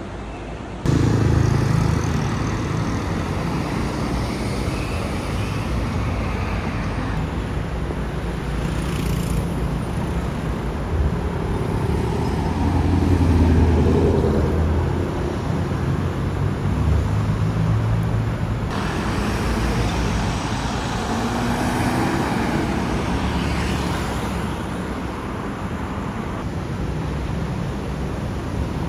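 Car engines and road traffic, with a strong low engine note that swells to its loudest about halfway through. The sound changes abruptly several times.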